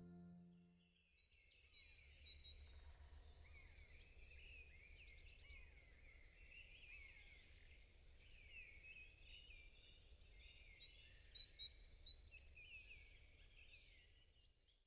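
Faint chorus of several small birds chirping and twittering in quick, overlapping high calls over a low steady rumble; background music fades out about a second in.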